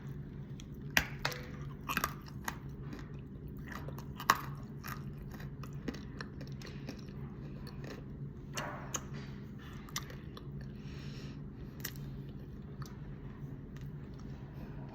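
A person biting and chewing dry calaba clay, with sharp crunchy cracks, the loudest about a second in, around two seconds and about four seconds in, then softer, sparser chewing. A steady low hum runs underneath.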